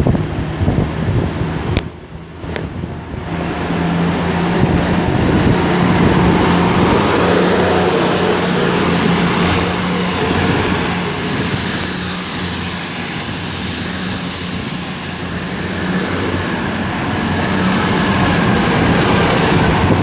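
Class 222 Meridian diesel multiple unit pulling out, its underfloor diesel engines working hard as it accelerates. The engine note swells a few seconds in and then holds steady, and a thin high whine rises and then falls away near the end.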